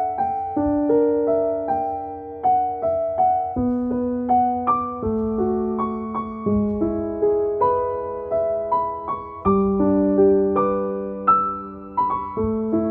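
Soft, slow background piano music: single notes played at an even pace over held bass notes.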